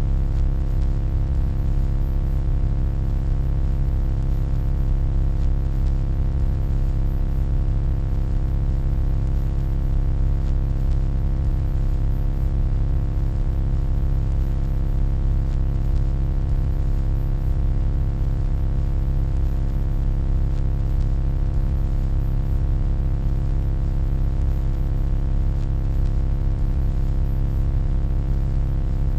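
Steady electronic hum: a deep, constant drone strongest in the bass, with many steady tones stacked above it and a faint hiss on top.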